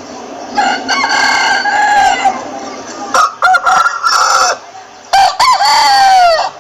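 Roosters crowing: three long crows in a row, the last ending in a falling pitch.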